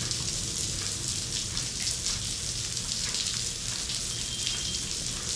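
Steady hiss of water falling like rain in an indoor rain room, drops pattering on the surfaces below.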